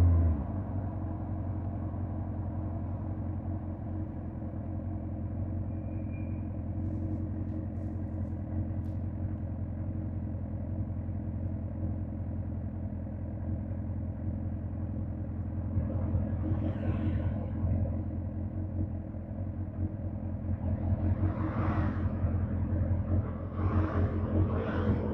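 Suzuki GSX-R1000 K5's inline-four engine running at a steady, even speed, just after a loud burst of revs has died away. A few louder swells of rushing noise come and go in the last third.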